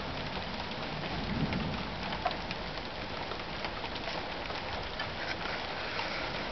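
Rain falling steadily in a thunderstorm: an even hiss with scattered sharp ticks of drops striking close by, and a brief low rumble about a second in.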